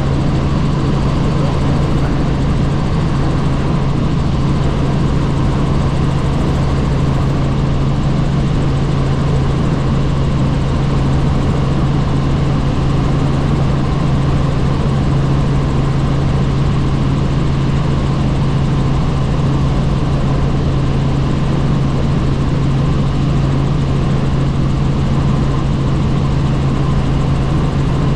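Helicopter in flight: a steady drone of engine and rotor with a strong low hum, holding even throughout.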